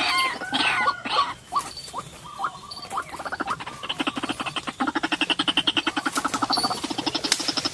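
White-breasted waterhen (ruak-ruak) calling: a few short squeaky, gliding notes, then, from about three seconds in, a rapid stuttering run of pulsed croaking calls.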